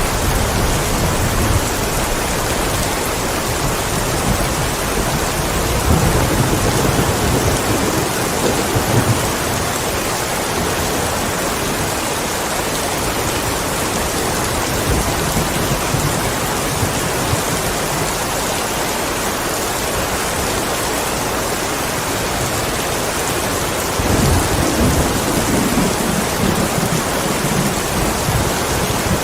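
Steady heavy rain, an even hiss, with low rolls of thunder swelling in at the start, about six seconds in, and again near the end.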